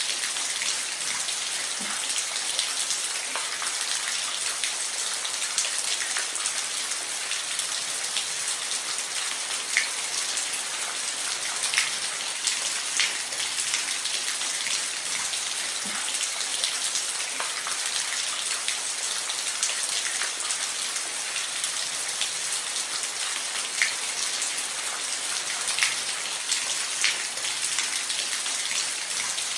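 Steady rain falling on a roof: an even hiss with scattered louder drops ticking through it.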